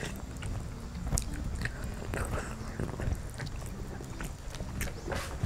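Close-miked chewing and mouth smacking as a mouthful of braised chicken and potatoes is eaten, with irregular wet clicks.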